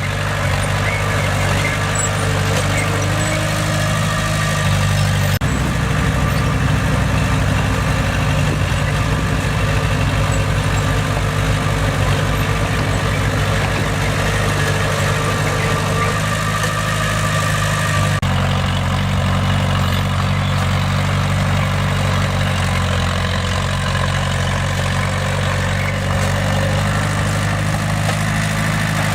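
Bulldozer's diesel engine running steadily, with small changes in its note about five and eighteen seconds in.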